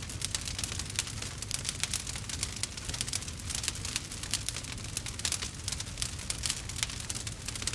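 Wood fire burning in a fireplace, the logs crackling with many small irregular pops and snaps over a low, steady rumble.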